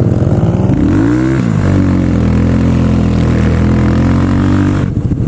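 A vehicle engine's drone. Its pitch rises and falls about a second in, then holds steady for about three seconds and cuts off abruptly near the end.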